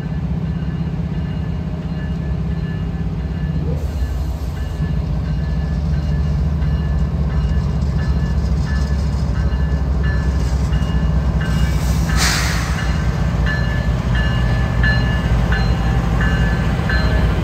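Freight train running past, a steady low rumble that grows a little louder after a few seconds. A brief hiss sounds about twelve seconds in.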